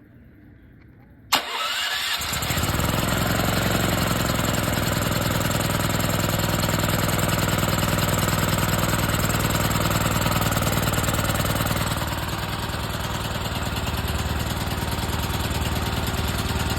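Portable generator's small engine starting about a second in, catching almost at once and then running steadily on choke with its air filter off, on a newly fitted carburetor. It runs a little quieter over the last few seconds.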